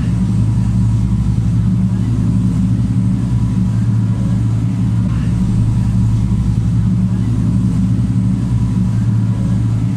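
An engine running steadily at an even speed, a loud low hum with no change in pitch.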